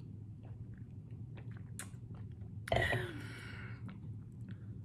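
A person chewing rotisserie chicken close to the microphone: soft wet chewing with small mouth clicks and lip smacks, and a brief louder voiced mouth sound about three seconds in.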